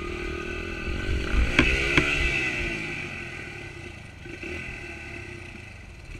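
Honda pit bike's small single-cylinder engine revving up and easing back down, with two sharp metallic clanks at the peak about a second and a half and two seconds in. It then runs on more steadily.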